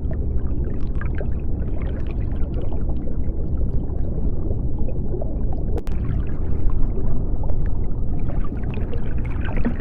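Underwater ambience: a steady low rumble with scattered faint bubbling crackles throughout, and a single sharp click about six seconds in.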